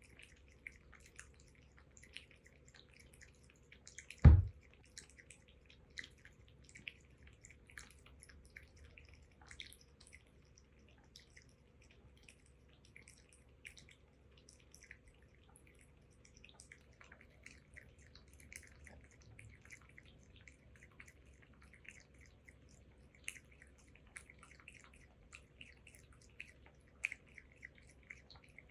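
A cat lapping milk: a run of quick, soft, wet licking clicks. One loud thump about four seconds in.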